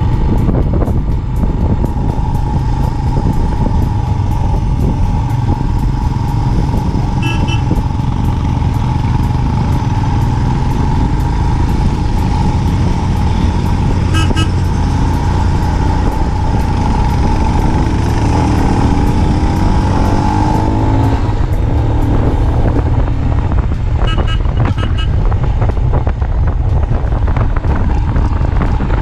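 Royal Enfield motorcycle engine running under way with heavy wind and road rumble on a helmet-mounted camera; the engine pitch shifts about twenty seconds in. Short double beeps, like a horn tooting, come three times.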